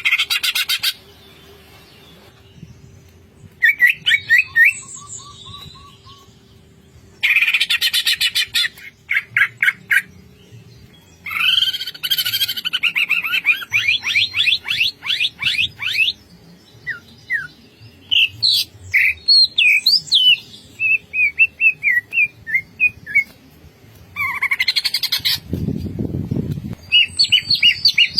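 Green leafbird (cucak ijo) singing in quick separate bursts of rapid trills and chirps, with short pauses between phrases. This is the dense 'ngentrok' song, packed with mimicked phrases.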